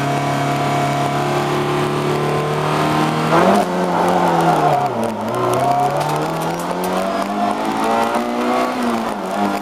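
Lada rally car's 1.3-litre four-cylinder engine heard from inside the cabin, held at steady raised revs, then climbing sharply as the car launches about a third of the way in. The revs dip with a gear change about halfway, climb again and drop with another shift near the end.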